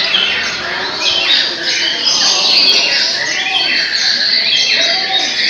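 Several caged white-rumped shamas (murai batu) singing at once in competition, a dense overlapping tangle of fast chirps, trills and whistles with no pause.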